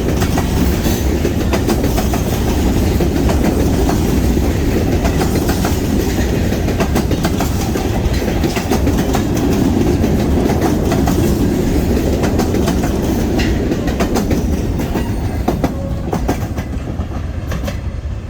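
Freight cars of a DeQueen & Eastern Railroad train rolling past close by: a loud, steady rumble with wheels clicking over the rail joints. It eases off a little near the end.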